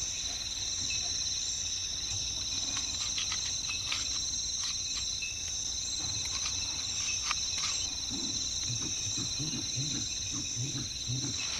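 Steady rainforest insect chorus with two unbroken high buzzing tones, dotted with short clicks and rustles. Irregular low sounds join in over the last few seconds.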